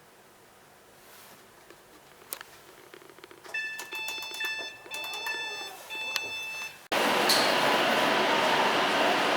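A run of short electronic beeps, then an abrupt cut about seven seconds in to the loud, steady running noise of a Class 390 Pendolino electric train.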